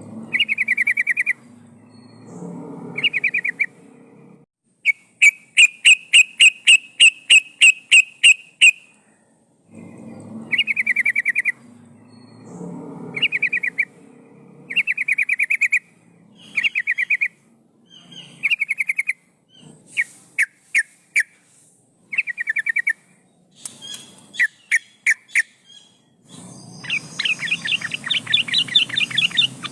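Yellow-vented bulbul (trucukan) singing short bubbly, warbling phrases, repeated every second or two. About five seconds in comes a run of sharp, rapid notes, and near the end a denser chattering run. This is a lure call, which the uploader gives as a female calling a male.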